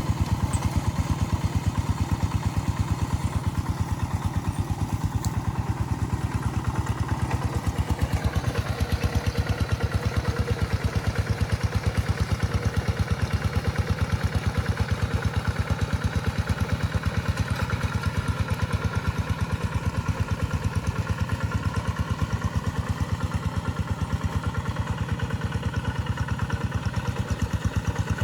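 Tractor engine running steadily, with a fast, even beat of firing pulses and some mechanical clatter.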